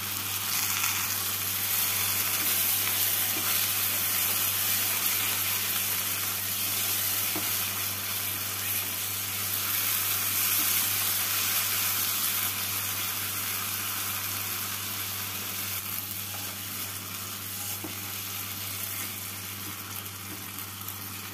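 Spiced onion-tomato masala sizzling in oil and ghee in a non-stick kadai as it is fried down with a little water and stirred with a silicone spatula. The sizzle swells at the start and slowly dies down toward the end.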